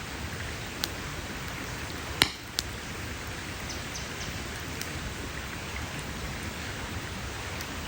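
Campfire burning with a steady crackling hiss and a few sharp pops of the wood, the loudest a little over two seconds in.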